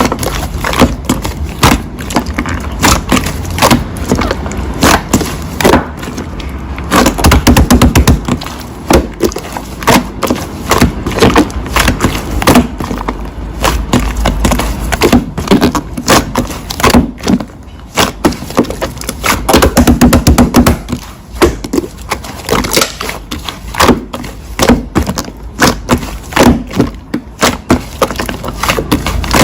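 Slime being squeezed and poked by hand, giving a dense, irregular stream of crackling pops and clicks.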